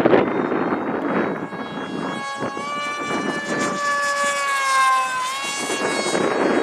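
Wind buffeting the microphone, and a 6-cell electric RC plane's motor and propeller whining during a pass. The whine comes in about two and a half seconds in, its pitch falling slowly, then drops sharply about five seconds in and fades back under the wind.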